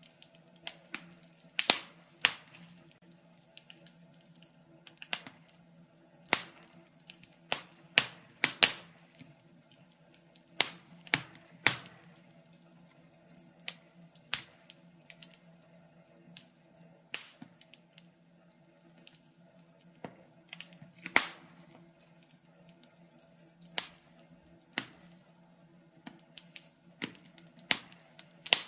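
Wood fire crackling in a fireplace: irregular sharp pops and snaps, a few every second, over a faint low steady hum.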